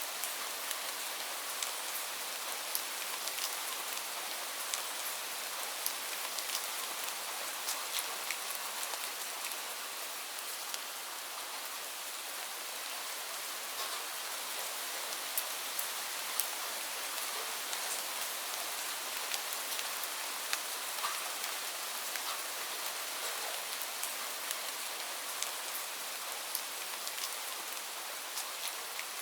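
Steady rain falling, a constant hiss with many sharp, irregular drop hits on a surface.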